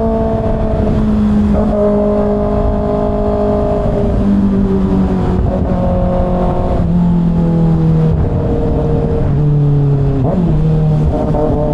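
Kawasaki ZX6R inline-four sport-bike engine running at low speed in a low gear, its pitch rising and easing as the throttle is opened and rolled off, with a brief dip near the end. A steady low rumble of wind sits under it.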